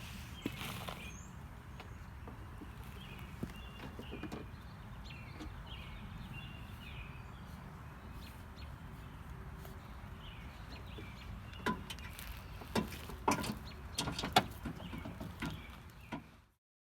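Small birds chirping over a steady low rumble, then a run of sharp clicks and knocks over the last few seconds before the sound cuts off.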